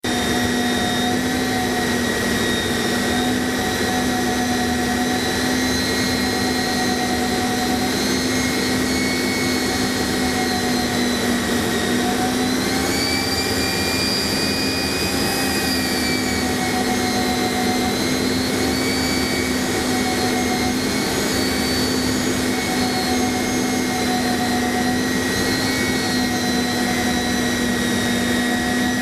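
Jet aircraft engine running steadily with a held whine over a rushing noise on the approach to a carrier landing. Its pitch rises briefly about halfway through, then settles back.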